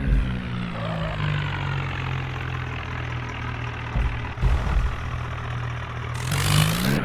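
Tractor diesel engine running: it eases off in the first second or so, holds steady, then revs up near the end. There are a couple of short knocks about four seconds in.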